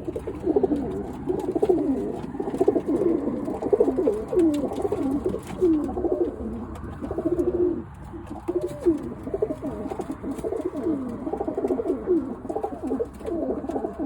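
A loft of Birmingham roller pigeons cooing, many birds calling at once in overlapping low, bending coos.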